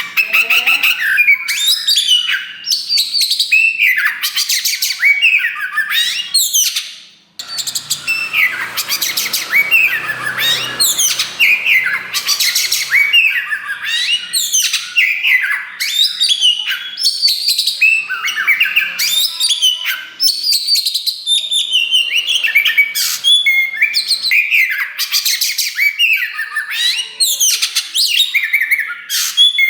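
Oriental magpie-robin of the black 'kacer wulung' variety singing loudly and without let-up. It is a fast, varied run of whistles, trills and harsh notes, broken only by a brief pause about seven seconds in.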